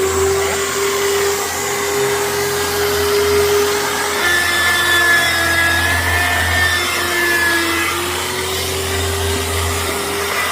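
A small motor running steadily with a constant whine. Its pitch drops slightly about four seconds in and climbs back up near eight seconds, as if it is briefly under load.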